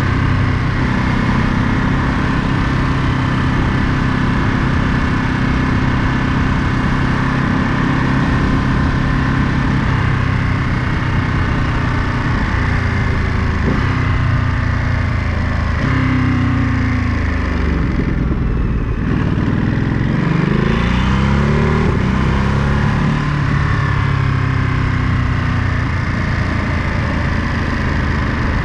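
Ducati Monster 937's 937 cc L-twin engine running under way, holding a steady note at first. About halfway through, the engine note falls as the bike slows, then rises again as it pulls away.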